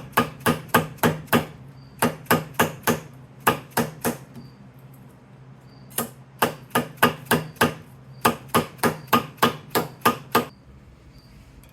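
Hammer striking a thin homemade aluminium exhaust gasket in four runs of quick, even blows, about four a second, with short pauses between the runs.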